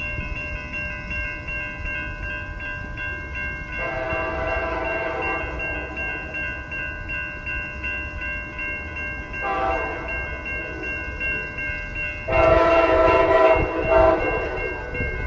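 Amtrak passenger train's horn sounding at a grade crossing: a long blast about four seconds in, a short one near ten seconds, and a longer one from about twelve seconds, over the steady, rapid ringing of the crossing's warning bells.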